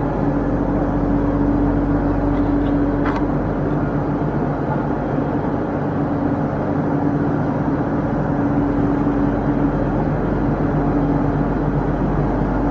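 Standing trains idling at the platform: a steady, continuous engine drone with a low hum, and a single short click about three seconds in.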